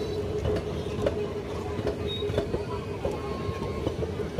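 Express train coaches rolling past close by: steel wheels clacking over rail joints about twice a second over a continuous rumble, with a steady whine running underneath.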